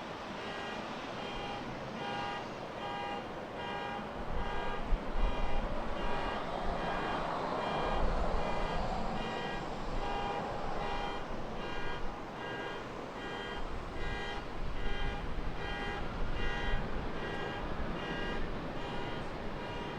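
An electronic beeper sounding about twice a second throughout, over the engine noise of a Boeing 737 jet on its takeoff run, which swells about five seconds in and fades after ten.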